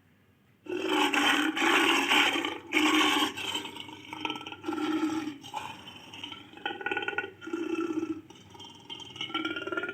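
Barbary lion growling in a series of rough calls, starting about a second in.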